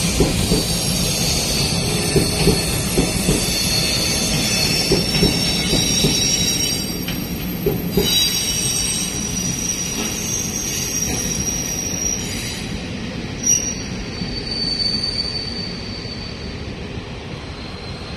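Train passing on the rails, its wheels squealing in several high, steady tones over a low rumble, with rail-joint knocks in the first half. It fades gradually toward the end.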